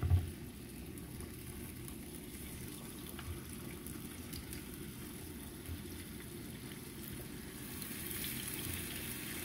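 Chicken pieces frying in hot oil in a pan: a soft, steady sizzle that gets louder near the end as more pieces go in. A thump comes right at the start, with a few light knocks after it.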